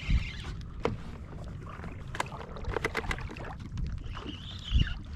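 Wind rumbling on the microphone aboard a small fishing boat, with two heavy thumps, one just at the start and one near the end, and scattered clicks and knocks between them.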